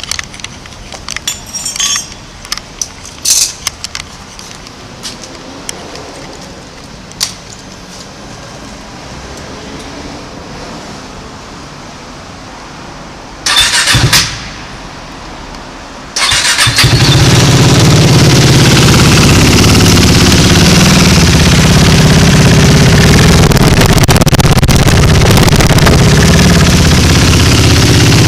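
A few scattered clicks and knocks, then a brief loud burst of cranking. About 16 seconds in, the KTM 390 Duke's single-cylinder engine starts and idles loudly and steadily through an Akrapovic silencer with its baffle (dB killer) removed.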